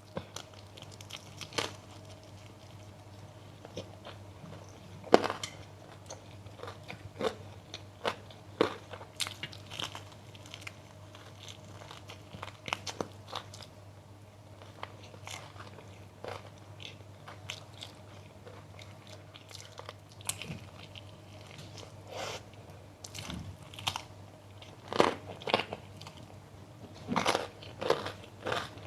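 A person biting and chewing crunchy food close to the microphone: scattered crisp crunches, sparser in the middle and coming thick and fast near the end, over a faint steady low hum.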